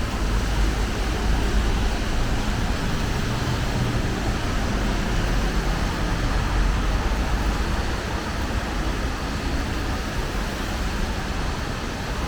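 Steady road traffic noise with a constant even hiss and a strong low rumble, no separate events standing out.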